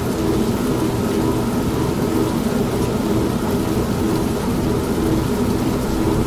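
Old manual washing machine running with a steady motor hum, mixed with steady rain and a low rumble of thunder.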